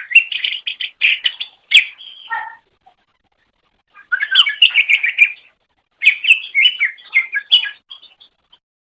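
Cucak ijo (green leafbird) singing: three bursts of rapid, varied chattering notes separated by short pauses.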